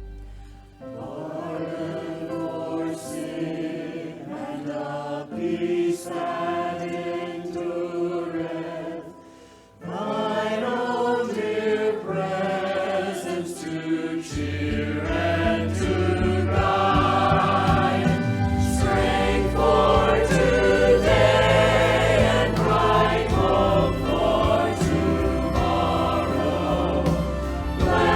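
Choir singing a hymn in sustained notes. The singing breaks off briefly about ten seconds in, then resumes fuller, with a deep low part joining a few seconds later.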